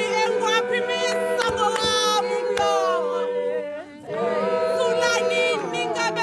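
Group of voices singing a gwijo chant, holding long sustained notes together, with a short break about four seconds in before the singing resumes.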